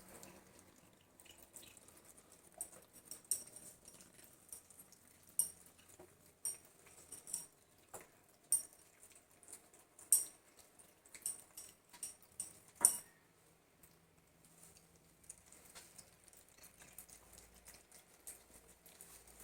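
Cats chewing treats: irregular short, sharp crunches and clicks, coming thickest through the middle of the stretch, with the loudest a little past two-thirds of the way through, then fading to a few faint ones.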